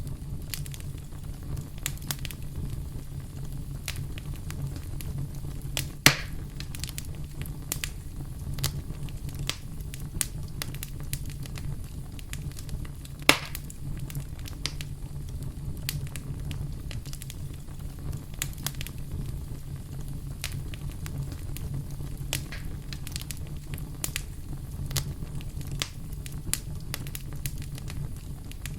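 Campfire crackling steadily, with a low rumble under many small snaps and two loud pops, about six and thirteen seconds in.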